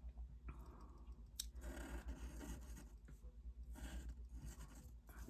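Faint scratching strokes of a pen drawing on paper, with one sharp click about a second and a half in, over a steady low hum.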